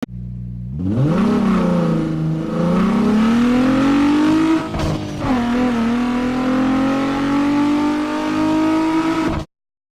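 Car engine revving: its pitch climbs about a second in, dips briefly near the middle, then holds high until the sound cuts off suddenly.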